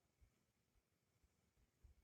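Near silence, with a few faint low thumps.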